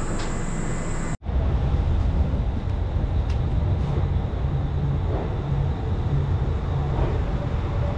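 A steady hum beside a standing passenger train, then, after a brief cut about a second in, the low rumble of the train rolling as it pulls out of the station, heard from a coach's open doorway.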